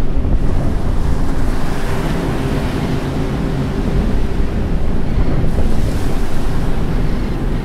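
Loud, steady rushing noise of surging water and wind, with a deep rumble underneath.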